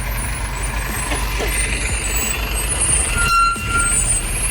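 Vehicle engines running in a stalled queue of traffic: a steady low rumble with a hiss over it. A short, steady high beep sounds about three seconds in.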